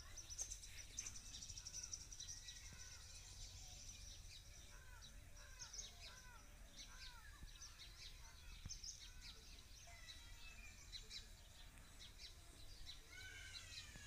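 Near silence: faint room tone with a low steady hum, and faint, repeated short chirps of small birds.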